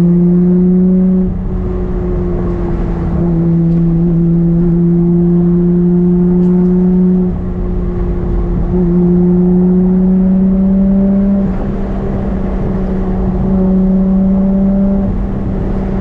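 Nissan Skyline R32 GT-R's twin-turbo RB26 inline-six engine and exhaust under way at light, steady throttle, recorded on the car's GoPro rather than at the tailpipe. The engine note creeps up in pitch, then drops with a brief dip in loudness, several times over.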